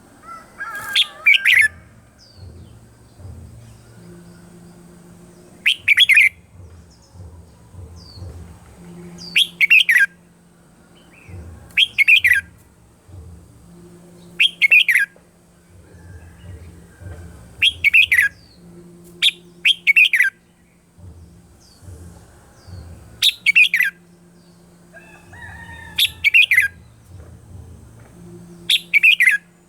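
Red-whiskered bulbul singing short, loud, bright phrases every two to three seconds, over a faint low hum.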